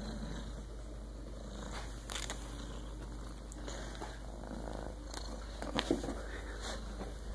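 A kitten purring steadily, with a few faint clicks.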